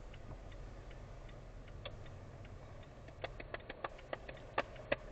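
Inside a car: a low steady hum under a series of small clicks, sparse at first and then louder and quicker, several to the second, over the last two seconds.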